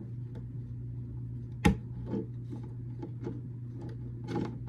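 Small plastic building bricks handled and pressed together: one sharp click about a third of the way in, then lighter clicks and rattles.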